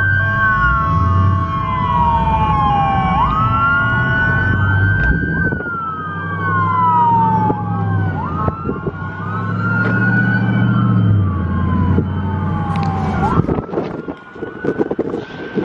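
Police siren wailing, each cycle a quick rise and then a slow fall, repeating every few seconds, with two wails overlapping partway through. Car engines run underneath.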